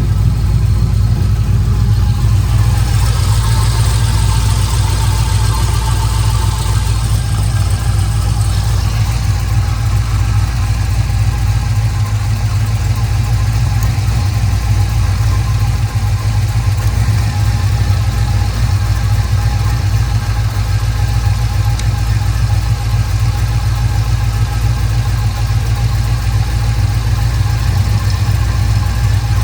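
2000 Chevrolet Camaro engine idling steadily, with a miss that the owner takes for one cylinder missing, in an engine suffering from blow-by. A hiss runs for several seconds near the start.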